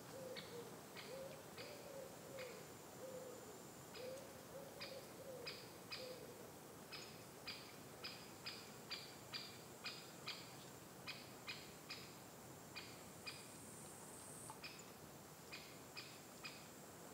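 Faint bird calls. Low, rising-and-falling hooting notes come in little groups over the first several seconds, and short, high, clipped notes repeat about twice a second from about four seconds in to the end.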